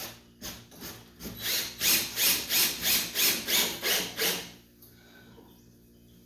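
Hand saw cutting through wood in quick, even back-and-forth strokes, about three a second. The sawing stops about four and a half seconds in.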